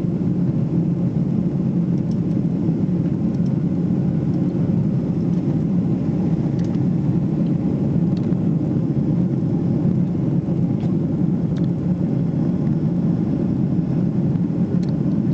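Steady cabin rumble of a Boeing 777-300ER in flight: the jet engines and rushing airflow heard from a window seat, even and unchanging, with a few faint clicks.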